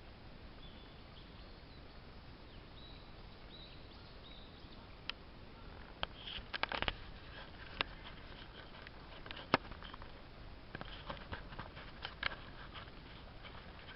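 Faint outdoor ambience: a steady low hiss, a few faint high chirps in the first few seconds, then scattered sharp clicks and taps, bunched about halfway through and again near the end.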